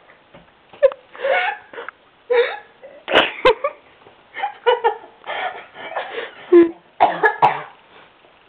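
A person making a string of silly vocal sound effects with the mouth and throat: about a dozen short, irregular throaty bursts of changing pitch, with brief pauses between them.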